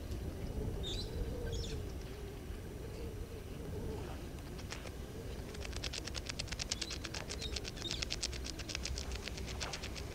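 Birds calling over a low outdoor background: a couple of high chirps about a second in, a faint wavering low call running underneath, and from about halfway a fast, even rattle of rapid clicks.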